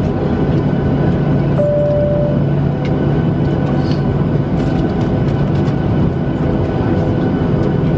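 Steady cabin noise of a Boeing 737-700 with its engines running, a loud even rumble with a low hum. A short single-tone cabin chime sounds about two seconds in.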